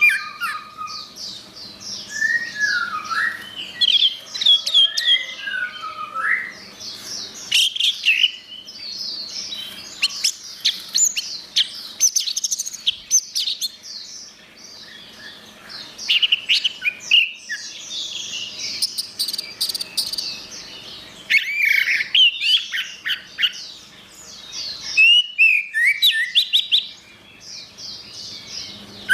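Orange-headed thrush (anis merah) singing a long, varied song of clear whistled phrases, sweeping notes and fast trills, delivered in loud bursts with short pauses between them.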